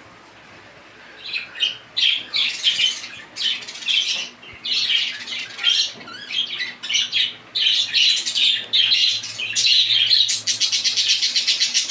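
A flock of caged pet birds squawking and chattering with many harsh, overlapping calls. A fast rapid-fire run of calls comes near the end.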